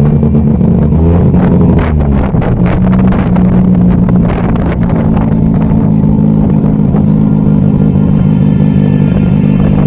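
Car engine running close by, its pitch rising about a second in as it revs, then holding steady.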